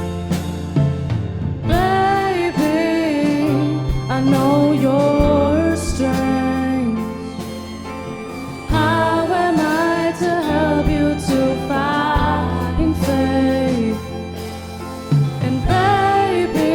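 Live pop band music: a bending lead melody over bass, drums and guitars.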